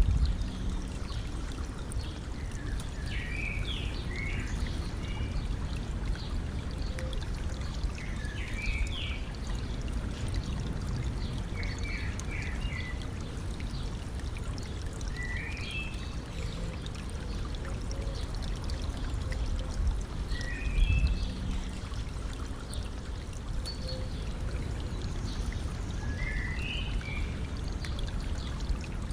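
Stream water flowing and trickling steadily, with a songbird singing short phrases every few seconds.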